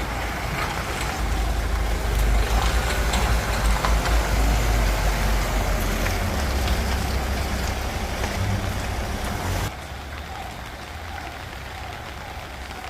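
Low rumble of a vehicle's engine moving through a flooded street, over a steady hiss of rain. It cuts off abruptly about ten seconds in, leaving only a quieter hiss.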